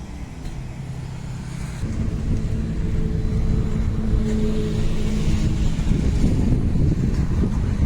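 Diesel engine of a JCB Vibromax vibratory soil compactor running, growing louder about two seconds in and rougher for the last couple of seconds.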